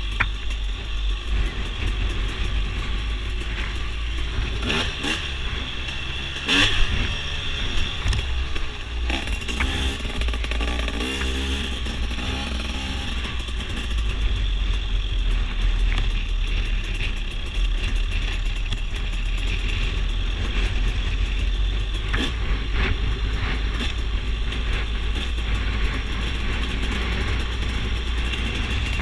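Dirt bike engine running on a trail ride, heard through a GoPro, under a heavy steady low rumble, with a few sharp knocks, the loudest about seven seconds in.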